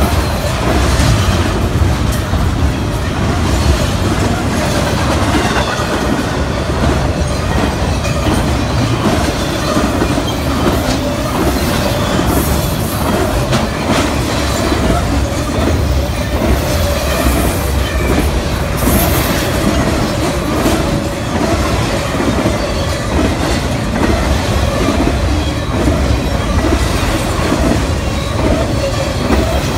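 Intermodal freight train cars, highway trailers on flatcars, rolling past close by: a steady loud rumble of wheels on rail with a steady ringing tone from the wheels and scattered sharp clicks as the wheels pass over the rails.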